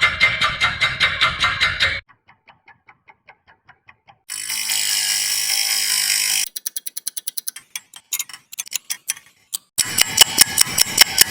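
A series of different clock-ticking sound effects cut one after another, with ticking at changing speeds and loudness: loud, fast ticks, then faint ones. About four seconds in there is a steady ringing sound lasting about two seconds, after which the ticking returns and ends loud and fast.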